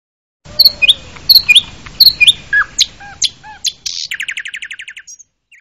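A bird chirping: a string of short, sharp notes, several swooping down in pitch, followed about four seconds in by a fast, even trill lasting about a second.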